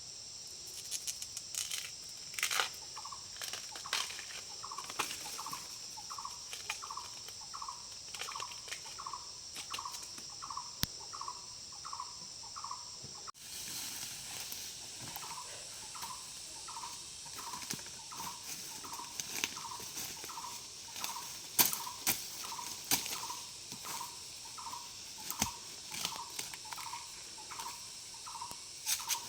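A short, falling animal call repeated about twice a second, over a steady high insect drone, with scattered sharp clicks and knocks.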